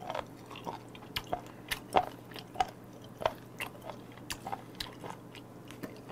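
Close-up chewing of raw chicken feet in spicy seasoning, with sharp crunching clicks about twice a second as the bones and cartilage break.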